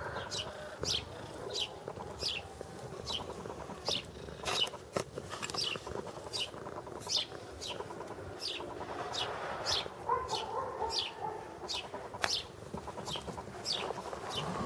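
A bird calling over and over, a short high chirp falling in pitch, repeated evenly about every two-thirds of a second. A few soft knocks come through where a kitten bumps against the camera.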